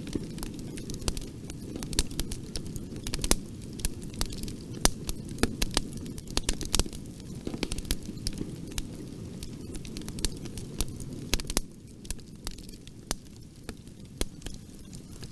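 Wood fire crackling in a fireplace: frequent sharp pops and snaps over a low steady rumble of flame, the pops thinning out a little near the end.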